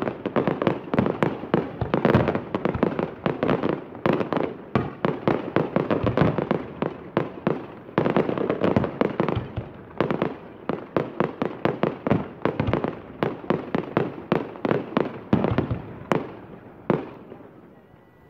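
Professional fireworks display: aerial shells launching and bursting in rapid succession, several bangs a second. The barrage thins to a few last bangs and fades away near the end.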